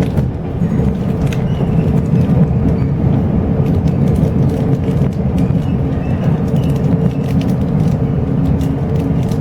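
Steady low rumble of a locomotive-hauled Chu-Kuang passenger train running along the line, heard inside the coach. A constant hum sits over it, with scattered light clicks.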